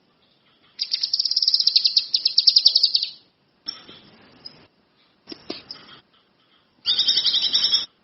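Caged kinoi songbird singing in fast trills of rapidly repeated high notes. The first loud trill runs about two seconds, and a second comes near the end.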